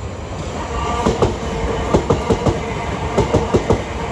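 Class 375 Electrostar electric multiple unit passing through a station, its wheels clattering over rail joints in quick groups of clacks over a steady rumble.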